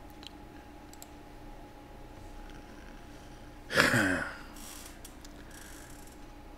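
A man's audible sigh about four seconds in, followed by a brief breath, over a low steady room hum.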